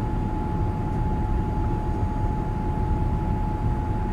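Steady low rumble of a Boeing 787 Dreamliner's engines, with one thin, constant whine on top.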